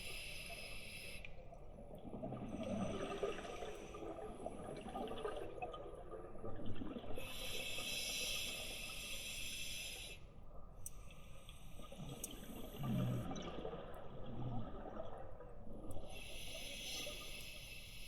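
Scuba diver breathing underwater through a regulator: a hissing inhale at the start, another about seven seconds in and a third near the end, each followed by the low bubbling gurgle of the exhaled air.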